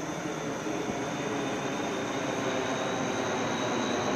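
Jet aircraft flying overhead: a steady rushing engine noise that grows slowly louder.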